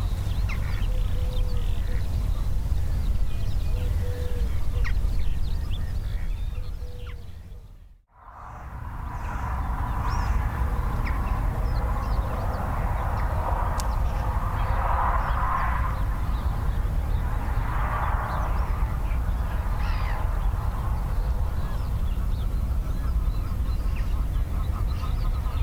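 Outdoor ambience of birds calling on and off over a steady low rumble. The sound fades out to near silence and back in about eight seconds in.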